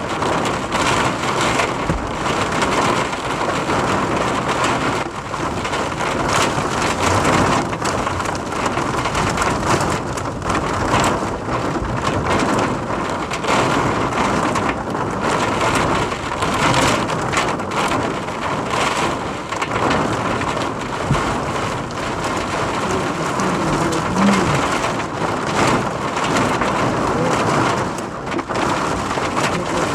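Heavy rain falling in a squall with strong wind, a loud, steady wash of noise that swells and dips.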